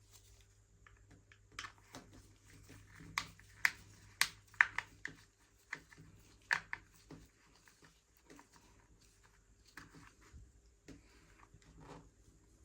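Plastic R/C toy car remote controller being handled and cleaned: irregular light clicks and scraping, with a run of sharper clicks in the middle.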